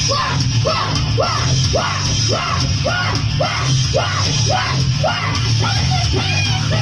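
Loud live rock music with heavy-metal character: a short rising-and-falling phrase repeats about twice a second over a steady, thick band sound, with yelled vocals.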